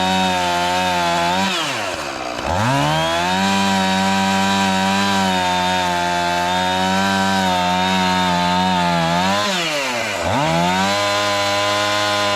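Gas chainsaw running at full throttle while cutting into wood, trimming the underside of a felling notch. About two seconds in and again near ten seconds the engine speed drops sharply and climbs back to full revs.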